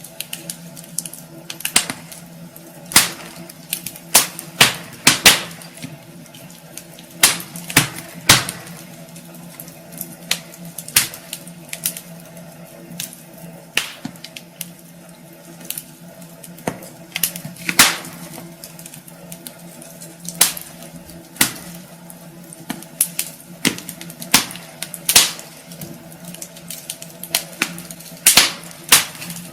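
Wood fire burning in a fireplace, logs crackling with irregular sharp pops, some much louder than others, over a steady low hum.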